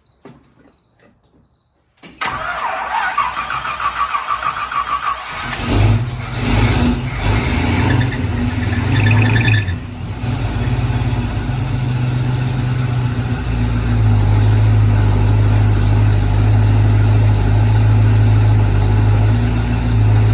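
The swapped-in 327 small-block Chevy V8 of a 1968 Chevy K10 pickup being started. About two seconds in, the starter cranks for roughly three seconds, then the engine catches and revs unevenly for a few seconds before settling into a steady idle.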